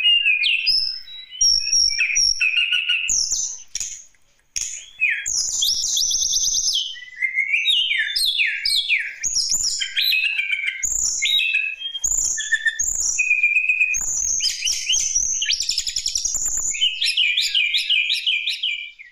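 Tledekan gunung songbird singing non-stop: a fast, varied run of high chirps, trills and whistles, with a brief pause about four seconds in.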